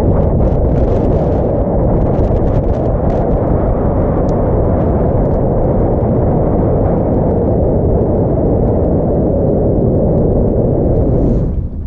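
Heavy wind buffeting the microphone: a loud, steady rumbling roar that drops off abruptly just before the end.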